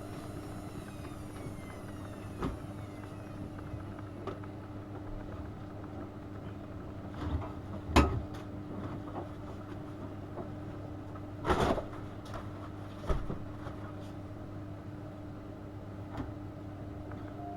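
AEG Öko-Lavamat 72520 front-loading washing machine running: a steady low hum, a whine that falls away over the first three seconds, and a few knocks and clunks, the loudest about eight and eleven and a half seconds in.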